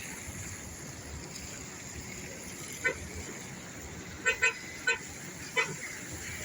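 A horn sounding five short toots, the first near three seconds in and the rest in a quick cluster over the next few seconds, over a steady background hiss.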